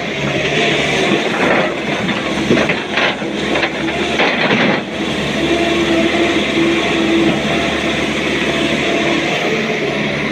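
Heavy diesel engine of a working excavator running steadily, with rough clattering and scraping of rock from about one to five seconds in, then a steadier engine drone.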